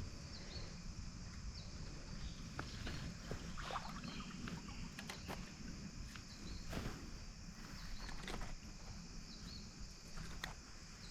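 Creek ambience: irregular small water splashes and clicks while a small bass is landed by hand, over steady insect chirping.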